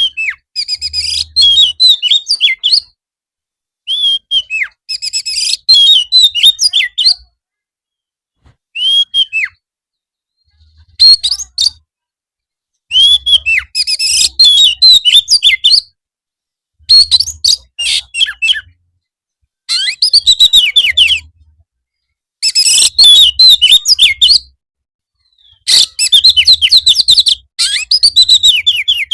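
Oriental magpie-robin (kacer) singing in repeated short phrases of gliding whistles and fast chattering notes, separated by brief silent gaps.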